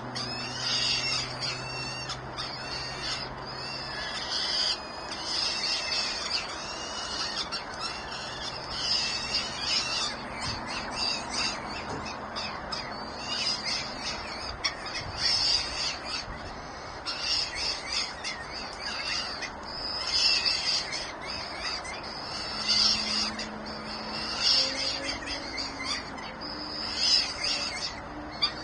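Birds calling over and over with high-pitched cries, several a second, with only brief pauses.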